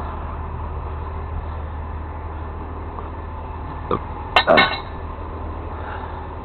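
Sharp metallic clanks: one about four seconds in, then a louder quick cluster of two or three with a brief ring. Under them runs a steady low engine hum.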